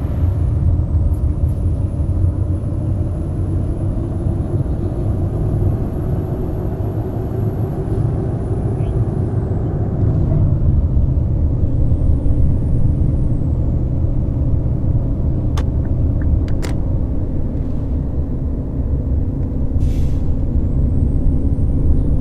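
Scania K420 bus's six-cylinder diesel running on the road, a steady low drone. A few sharp clicks come near the middle, and a short hiss about twenty seconds in.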